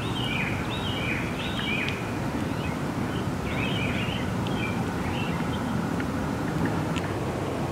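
Steady low outdoor background rumble, with a bird giving short two-note chirps about twice a second in runs during the first five seconds.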